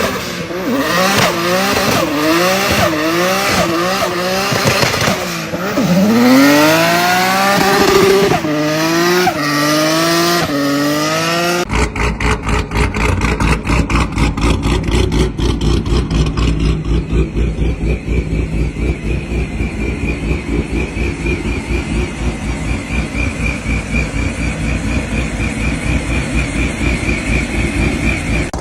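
A vehicle engine revved up and down again and again in quick throttle blips. About twelve seconds in the sound cuts to an engine running steadily with an even, rapid pulsing.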